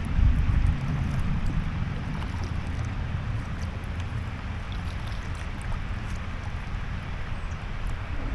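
Strong wind buffeting an action camera's microphone: an uneven low rumble, gustiest in the first second, over a fainter steady hiss.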